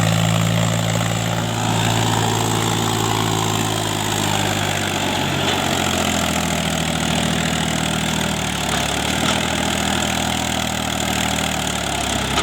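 Mahindra 265 DI tractor's three-cylinder diesel engine running steadily, its pitch dropping slightly about halfway through.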